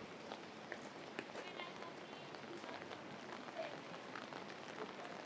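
Steady rain falling, with many small drips and taps of drops landing on nearby surfaces.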